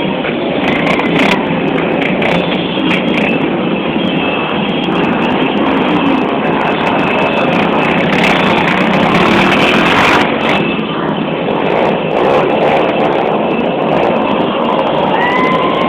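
Motorcycles running, a loud steady noisy rumble with no clear engine note.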